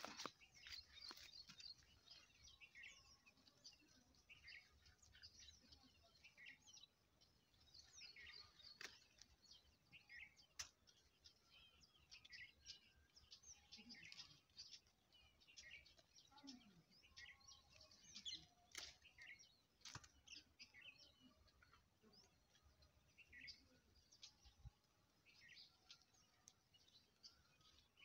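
Faint chirping of small birds: many short calls scattered throughout, with a few sharp clicks here and there.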